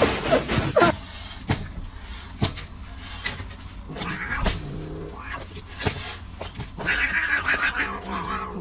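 A pet cat vocalizing, with a higher-pitched call near the end, amid scattered knocks and clicks.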